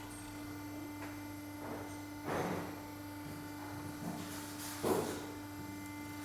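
Workshop car lift's electric pump motor running with a steady hum while raising the car, cutting off abruptly near the end. A few knocks sound over it, the loudest about halfway and a second or so before the motor stops.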